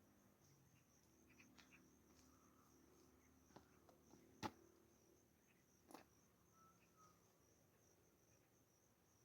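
Near silence with faint, steady cricket chirping and a couple of sharp clicks near the middle.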